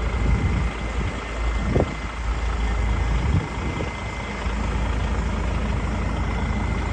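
DAF XF105.460 truck's 12.9-litre six-cylinder diesel engine idling steadily, with a couple of brief louder bumps about two and three and a half seconds in.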